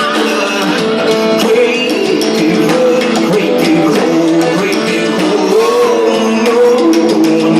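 Live rock band playing a guitar-led song, with a wavering melodic line over a steady, dense band sound. The sound is loud and thin in the bass.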